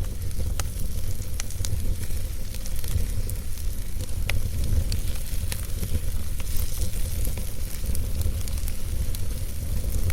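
Wood fire burning in a fireplace: a steady low rumble and hiss with scattered sharp crackles and pops from the logs.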